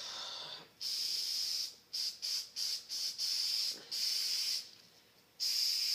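Aerosol spray paint can hissing in repeated bursts: a few longer sprays and a run of short quick squirts in the middle, with a brief pause before another long spray near the end.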